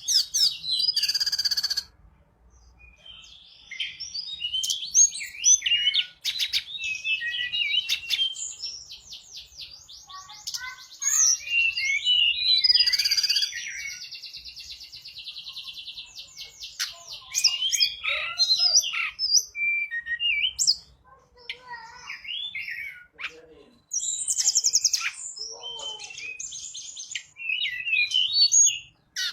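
Tledekan gunung songbird singing in full voice (gacor): a long run of varied chirps and whistled phrases mixed with fast rattling trills, broken by a few short pauses. This is the kind of song played as a pancingan, to set other caged birds singing.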